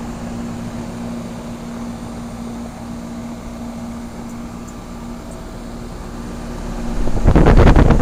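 1992 Rheem Classic X heat pump outdoor unit running in heat mode: a steady hum from the compressor and condenser fan. A loud burst of rushing noise comes in about seven seconds in and lasts about a second.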